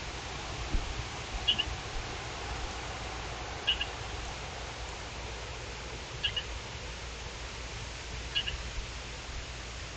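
A bird calling: a short, high double chirp repeated about every two seconds, over a steady hiss.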